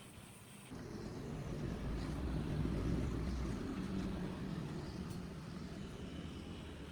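A low motor rumble that starts abruptly, swells to a peak about two seconds later, then slowly fades.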